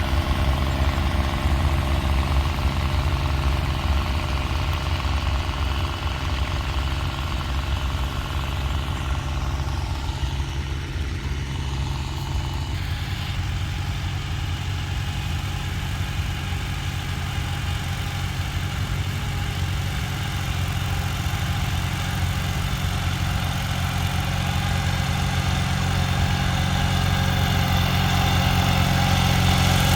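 Farm tractor engines running steadily, with a shift in the engine note about halfway through and growing louder over the last several seconds.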